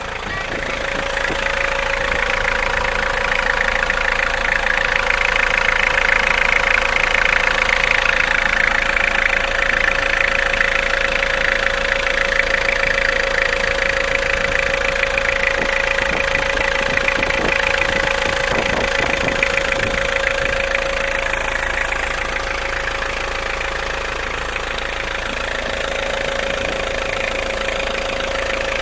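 A 2002 Toyota HiAce's turbo-diesel engine idling steadily, with a constant whine running over it.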